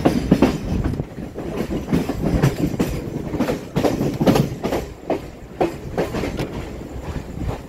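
Mumbai suburban local train running, heard from on board: a steady low rumble of the wheels with an uneven clatter of sharp knocks as they run over the rail joints and points of a wide yard.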